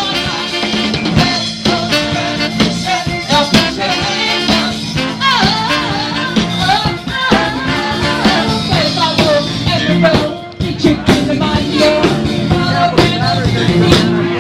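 Live band playing with a lead singer over drums and bass, loud and steady, with a brief dip in loudness about ten seconds in.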